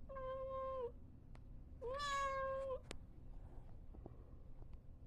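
A Maine Coon cat meowing twice, two long meows held at a steady pitch, the second louder, as she asks to be let outside. A short sharp click follows just after the second meow.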